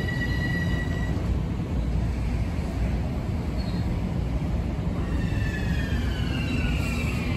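Long Island Rail Road electric multiple-unit commuter train moving slowly along the platform with a steady low rumble. A high steady tone drops out about a second in. From about five seconds a whine falls in pitch as the train slows.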